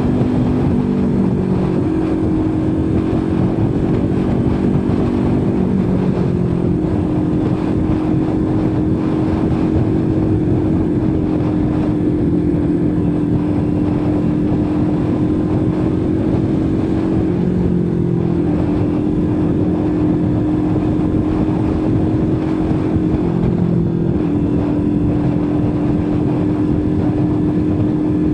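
Kawasaki Ninja 400 parallel-twin engine running at a steady cruise, with rushing wind noise. The engine note drops in pitch four times, about 1, 6, 17 and 23 seconds in, and holds steady between the drops.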